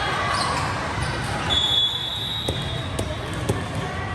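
A volleyball bounced on a gym floor: three sharp bounces about half a second apart over the murmur of the hall, with a short high squeak shortly before them.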